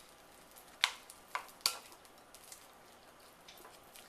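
A spoon knocking against a bowl a handful of times while stirring chicken strips in buffalo sauce: sharp clicks in the first half, then quiet stirring.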